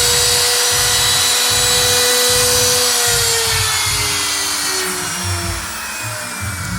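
A CNC router spindle motor whines steadily at high speed, then winds down from about three seconds in, its pitch falling as it slows.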